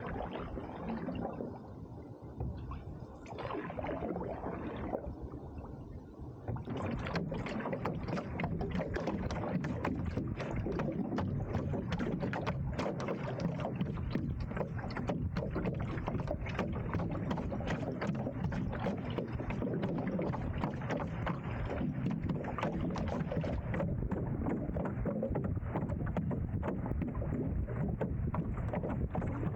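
Water splashing around a paddled canoe, with strokes about every two seconds at first. From about a quarter of the way in, a louder, steady rushing full of fine crackles takes over.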